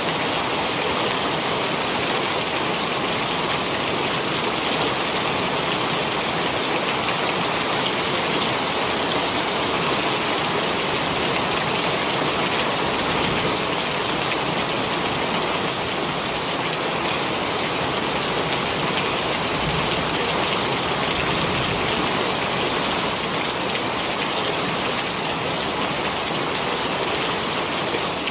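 Heavy rain falling steadily: a loud, even hiss of rain with no let-up.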